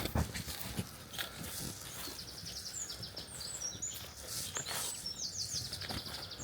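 Songbirds singing in an open field: twice a fast, high trill of many short repeated notes, with scattered thin chirps. Short soft rustles come and go underneath.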